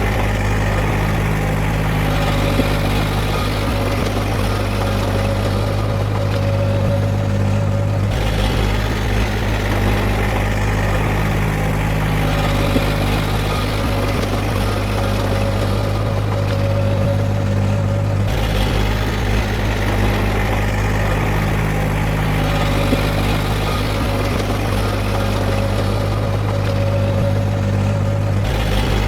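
Diesel engine of a heavy earthmoving machine running steadily, a continuous low hum that shifts in tone about every ten seconds.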